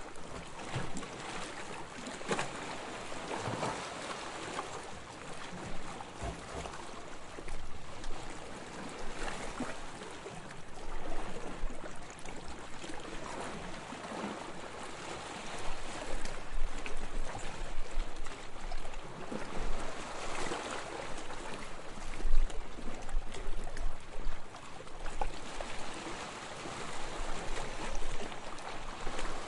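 Seawater lapping and splashing in small, irregular splashes, with occasional low rumbles in the second half.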